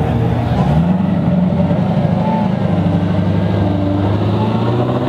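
A car engine idling steadily with a low, even note.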